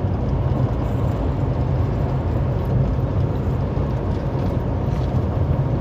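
Loaded semi-truck driving at highway speed, heard from inside the cab: a steady low engine drone with road and tyre noise.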